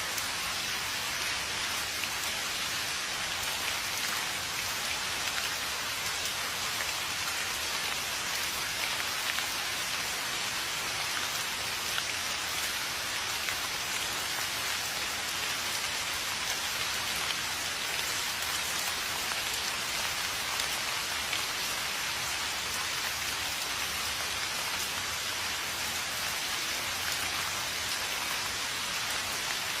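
Steady rain falling: an even hiss of rain with scattered faint drop ticks, unchanging throughout.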